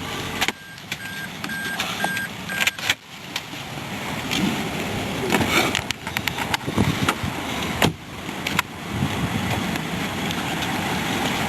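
2008 Toyota Corolla's engine cutting off about half a second in, followed by a car warning chime beeping about four times. Then a scatter of clicks and knocks over steady outdoor noise.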